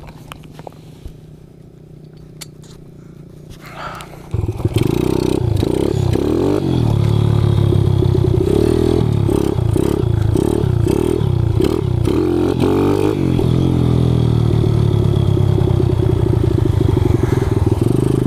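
Kawasaki KLX110 pit bike engine, bored out to 165 cc with an FMF exhaust, starting up suddenly about four seconds in after a few light clicks and clatters. It revs up and down repeatedly, then settles into a steady run. This is a restart after the rider said the spark plug had gone.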